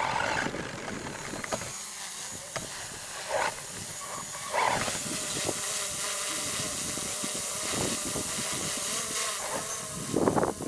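R/C monster truck driving, its motor whining steadily over a constant hiss of wheels and air, with a few short louder bursts.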